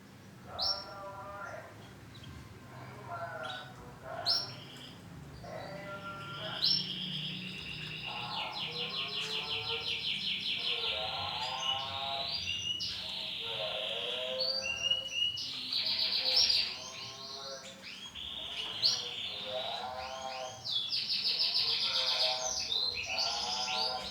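Male canary singing a long, varied song: sharp chirps, lower warbling phrases, and long rapid trills in the middle and near the end.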